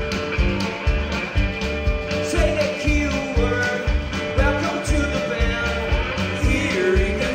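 Rock music with a steady, driving beat of about three thumps a second under guitar lines.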